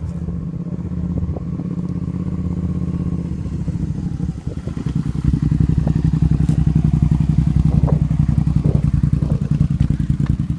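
Motorcycle engine running, growing louder about five seconds in after a brief dip, with a quick pulsing beat.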